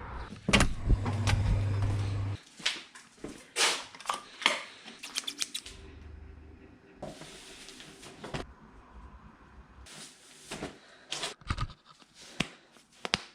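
Roller skiing: ski pole tips clicking and knocking on pavement, many sharp clicks at an uneven pace over a rolling rumble. The background changes abruptly several times.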